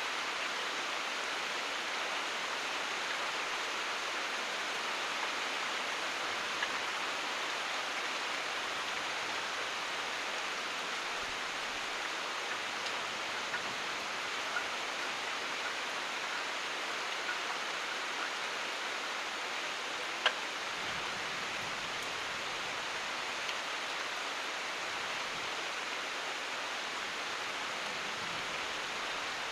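Steady rain falling, an even hiss with scattered louder drips, and one sharp drip-like tick about two-thirds of the way through.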